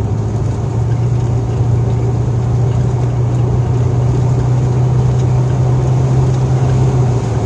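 Car engine and road noise heard from inside the cabin while driving: a steady low drone that creeps up slightly in pitch and drops near the end.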